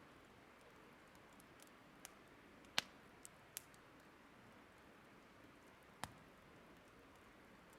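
Burning wood crackling faintly: a handful of sharp, separate pops and snaps over a soft steady hiss, the loudest pop about three seconds in and another near six seconds.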